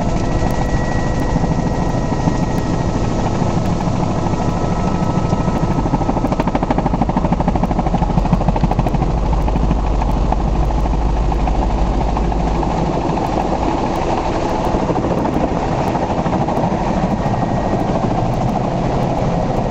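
Helicopter in flight: steady rotor chop over the engine's drone, with the low drone growing stronger for a few seconds in the middle.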